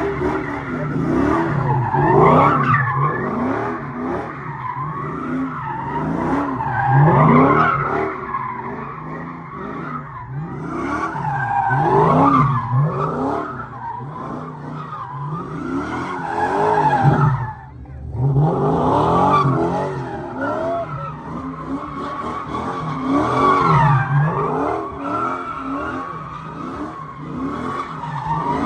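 Car engine revving hard, its pitch climbing and falling again and again, with tires squealing and skidding as the car is spun in a burnout or donuts; the noise drops off briefly for a moment about two-thirds of the way through.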